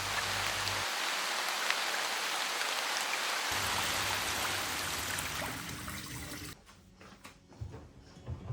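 A steady rush of water hiss, fading out about six and a half seconds in, over soft background music.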